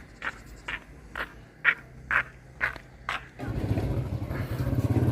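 Short scraping strokes, evenly spaced about twice a second, then a motorbike engine starts up about three and a half seconds in and runs steadily.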